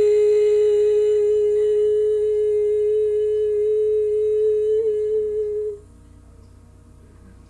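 A singer's voice humming one long, steady note a cappella. It stops abruptly about six seconds in.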